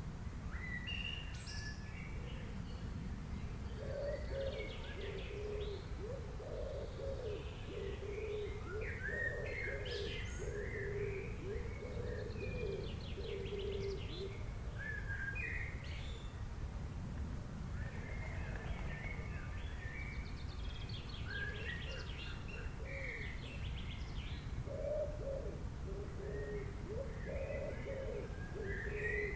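Bird ambience: small birds chirping and trilling throughout. A dove coos in runs of low repeated notes, about four seconds in and again near the end, over a steady low background hiss.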